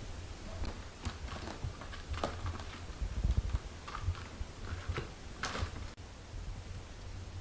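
Mother cat and newborn kittens shifting about in their bedding: soft rustling with a few light scratches and taps over a steady low rumble.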